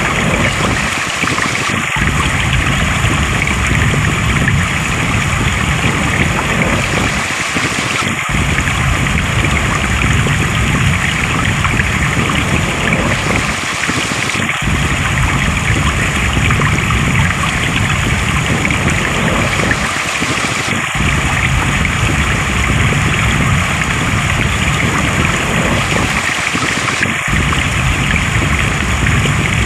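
Flowing stream water rushing and gurgling steadily, with a brief drop in the low rumble about every six and a half seconds.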